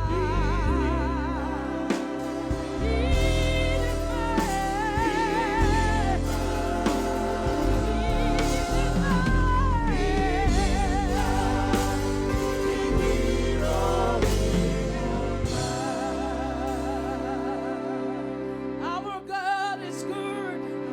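Gospel praise-and-worship music: a singing voice holding long, wavering notes with vibrato over steady band accompaniment with a strong low bass, thinning out near the end.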